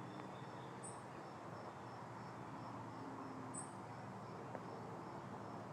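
Crickets chirping in a steady, evenly spaced pulse, with two short higher chirps and a low steady hum beneath.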